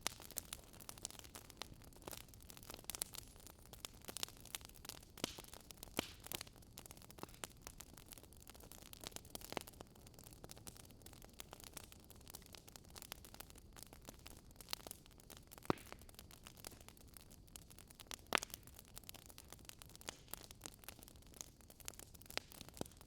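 Faint wood fire crackling: irregular sharp pops and snaps over a low steady hiss, with a couple of louder pops in the second half.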